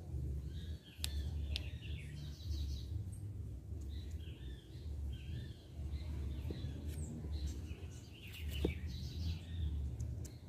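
Small birds chirping over and over in short calls, over a low steady rumble, with a few sharp clicks.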